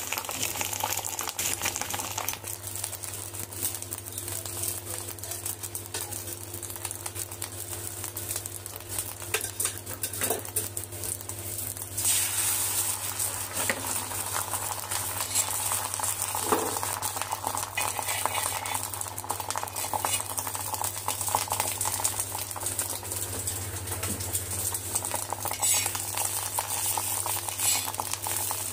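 Chutney-mixed egg omelettes sizzling and crackling in oil on a flat iron tawa, with a steady low hum underneath. The sizzle gets louder about twelve seconds in, and there are a few clinks of a spatula against the pan.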